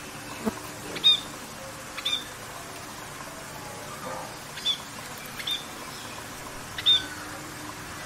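A bird giving short, sharp, high-pitched calls, five in all, spaced a second or two apart, over a steady background hiss.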